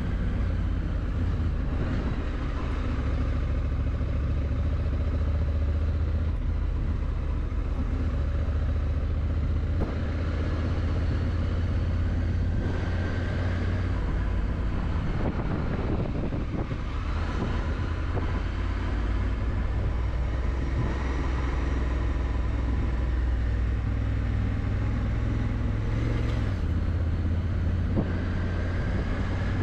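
Honda Africa Twin motorcycle on the move, its parallel-twin engine running at a steady speed as a continuous low rumble with road noise.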